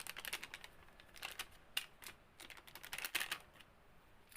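Clusters of quick, light clicks and scrapes from hands working a flower pot and potting soil, in two bursts of rapid ticking.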